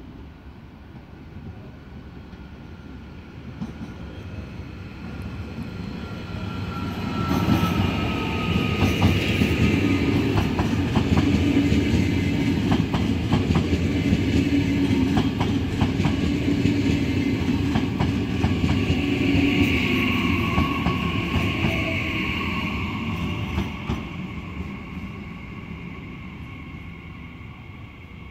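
Red double-deck electric regional train passing close by: a rumble that builds as it approaches, wheels clicking over the rail joints as the coaches run past, with a whine, then fading as it moves away.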